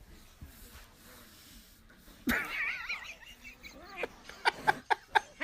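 A cat meowing: one wavering meow a little over two seconds in, then a quick run of short, sharp calls near the end.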